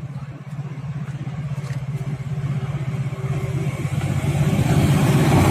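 Freight train locomotive running as it approaches, its low engine note growing steadily louder.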